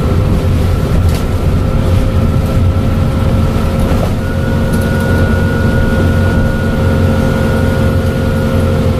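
Dennis Trident double-decker bus running steadily: a heavy low engine drone with a steady high turbocharger whistle over it.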